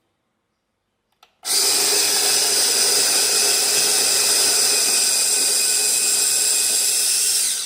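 Electric conical burr coffee grinder running steadily for about six seconds: it starts with a short click about a second in, runs at an even level, and cuts off near the end.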